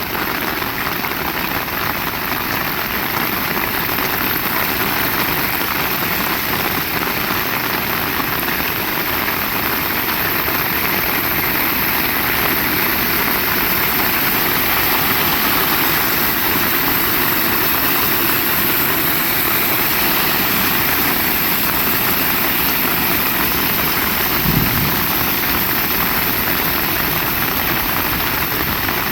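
Heavy rain pouring down steadily as a dense, even hiss, with one brief low thump about three-quarters of the way through.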